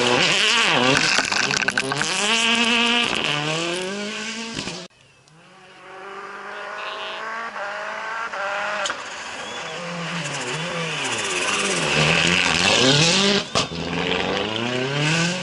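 Rally cars at full throttle, the engine note climbing and dropping again and again through quick gear changes, with a short tyre squeal. The first car's sound cuts off abruptly about five seconds in. Another car then builds up, revs hard and passes, its note falling away near the end.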